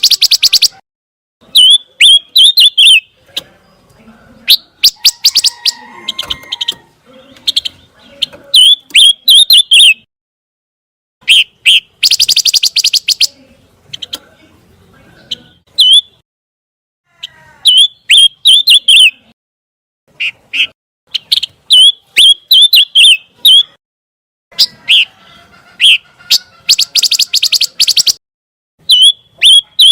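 A songbird singing in repeated bouts of rapid high chirps, trills and harsh buzzy rattles. Each bout lasts a second or three, with short pauses between them.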